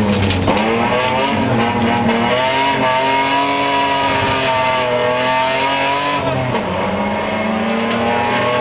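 BMW E30 rally car's engine heard from inside the cabin, pulling hard along a stage. The engine note dips just after the start, climbs and holds high through the middle, then drops again about six and a half seconds in.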